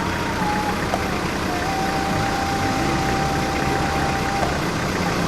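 Motocross dirt bike engine running at a steady high pitch over a constant low rumble, then dropping away about four and a half seconds in.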